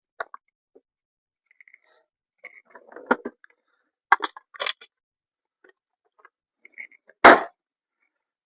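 Irregular clicks and knocks of hard objects being handled, in small clusters, with the loudest a single sharp knock about seven seconds in.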